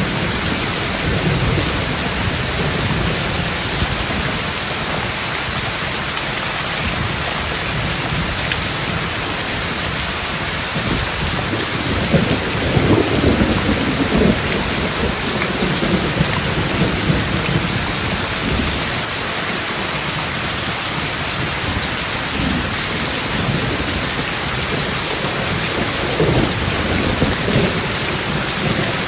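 Heavy rain falling steadily, with thunder rumbling low underneath. The loudest roll of thunder builds about twelve seconds in and lasts a few seconds, and a shorter one comes near the end.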